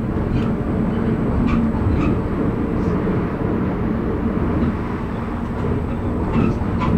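Moving commuter train heard from inside the carriage: a steady rumble of wheels on rails with a faint hum and a few light clicks.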